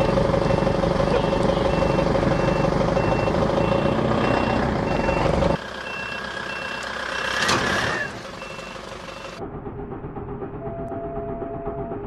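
Truck engine running while its reversing alarm beeps steadily, about two beeps a second. About five and a half seconds in the sound cuts off abruptly to quieter noise, with a single sharp crack a couple of seconds later.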